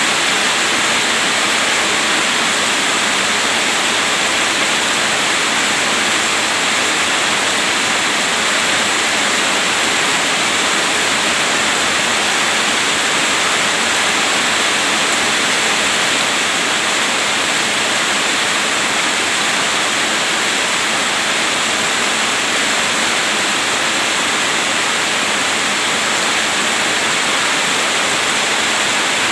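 Heavy rain pouring steadily, a dense, even hiss with no breaks or thunderclaps.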